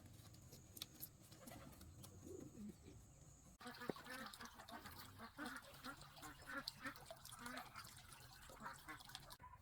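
A flock of domestic fowl calling, with many short calls overlapping several times a second. The calls start abruptly about three and a half seconds in, after a quieter stretch with faint clicks.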